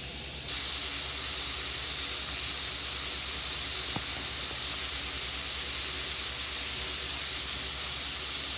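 Diced boneless chicken thighs frying in butter in a cast-iron skillet: a steady, even sizzle that starts suddenly about half a second in.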